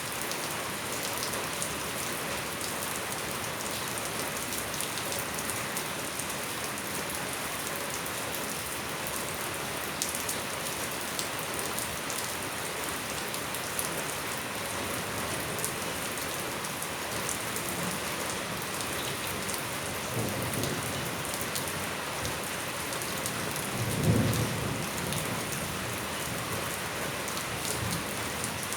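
Steady rain falling on surfaces around a house, with low rumbles of thunder in the last third, the louder one about three-quarters of the way through.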